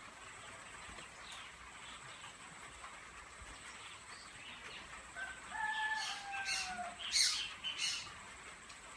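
Pet 'fire red' songbird, held in the hand, quiet at first and then giving a burst of whistled notes with sharp high chirps a little past halfway, lasting about three seconds.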